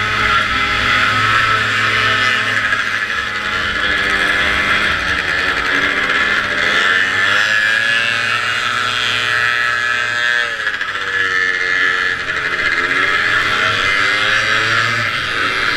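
Vintage racing snowmobile's two-stroke engine running hard, with a steady hiss of wind and track noise. In the second half the revs drop and climb again several times.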